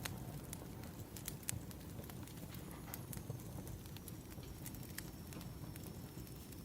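Burning firewood crackling: irregular sharp pops and snaps over a low steady rush of the fire.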